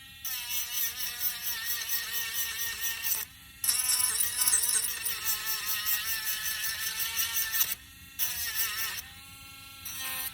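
Small handheld electric sander buzzing against wood, its pitch wavering as it is worked. It cuts out briefly twice, about three seconds in and near eight seconds, and runs quieter near the end.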